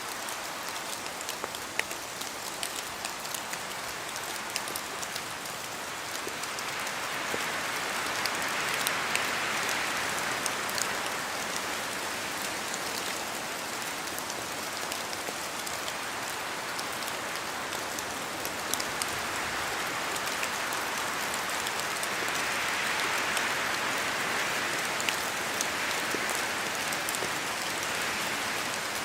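Steady rain falling in a forest, with many separate drops striking, some of them dripping from the trees. Wind swells through the trees twice, in long gusts that rise and fade, about a quarter of the way in and again near the end.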